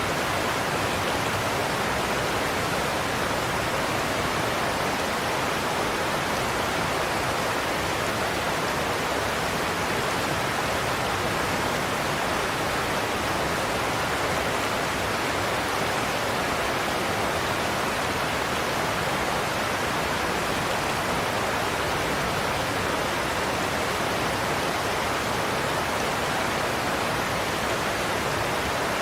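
Steady rush of a large waterfall, Godafoss, the Skjálfandafljót river pouring over the falls, an even roar with no breaks or changes.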